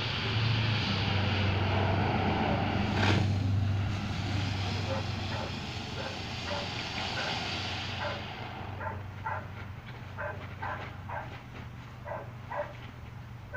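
A ground fountain firework hissing and spraying for about eight seconds, with a sharp crack about three seconds in, then dying away. As it fades, a dog barks repeatedly over a steady low hum.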